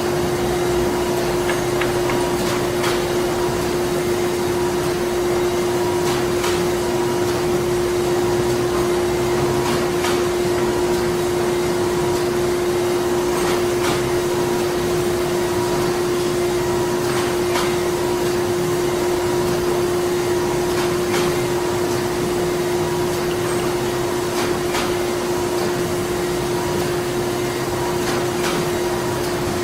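Printing-plant machinery running steadily: a constant mechanical hum with one strong steady drone, a fainter higher tone that comes and goes, and occasional light clicks.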